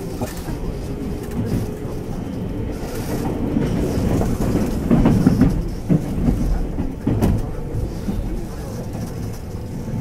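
A JR West 221 series electric train running, heard from inside the carriage: a steady low rumble with wheels clicking over rail joints, growing somewhat louder towards the middle as the train picks up speed out of the station.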